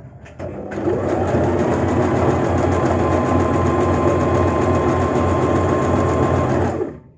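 Portable electric sewing machine running steadily as it stitches a buttonhole. It starts about a second in and stops just before the end.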